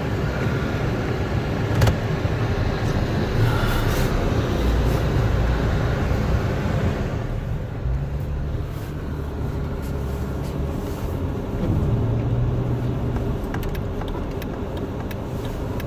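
Jeep Wrangler engine running steadily while driving through deep snow, with a broad rushing noise over it that drops away about seven seconds in. A few light clicks come near the end.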